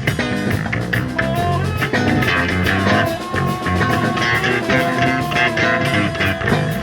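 Instrumental reggae band playing: electric guitar, bass and drum kit keep an even rhythm under a sustained melody line.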